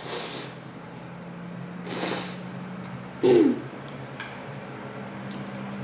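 Eating sounds over a bowl of spicy noodles: two short breathy slurp-like noises, then a short falling vocal sound, like a hum of reaction, a little over three seconds in, the loudest moment. A few faint clicks follow near the end, over a steady low hum.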